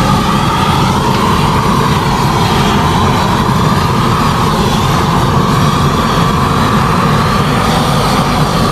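Propane flamethrower torch burning with a steady, loud rush, thawing frozen winch cables.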